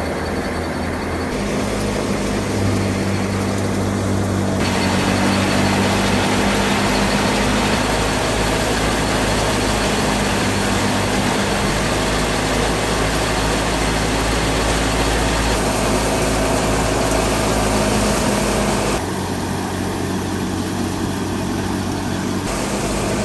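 Fiat 480 tractor's three-cylinder diesel engine running steadily under load while driving a wheat thresher, its low drone mixed with the thresher's steady rushing noise. The mix shifts abruptly a few times.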